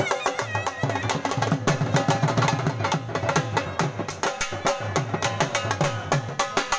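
Dhol drumming: a fast, dense, steady beat of drum strokes. A high melody plays over it for about the first second.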